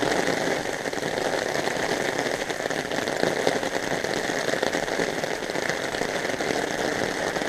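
Rain mixed with hail falling, a steady dense patter of many small hits.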